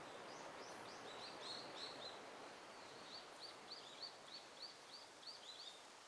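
A small bird calling in two quick runs of short, high chirps, about four a second, over a faint, steady rushing background.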